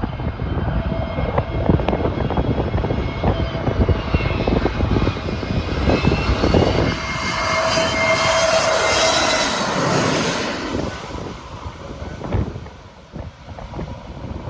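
Airliner passing close overhead, its engine tones rising to a peak about two-thirds of the way in and then dropping in pitch as it goes by. Wind buffets the microphone throughout.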